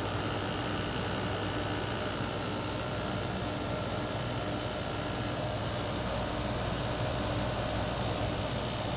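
Window air conditioner running with its Toshiba rotary compressor and fan on, a steady, even hum: a smooth-running compressor.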